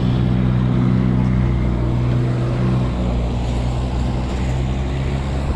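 A motor vehicle's engine running close by with a steady low hum over road noise, easing slightly after about three seconds.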